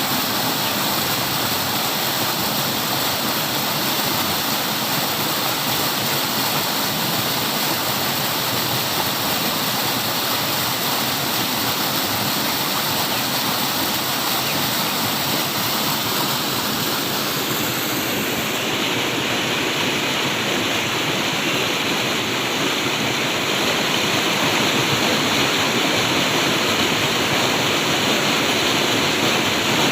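Flowing water: the steady rush of a stream or small waterfall, its tone shifting slightly about two-thirds of the way through.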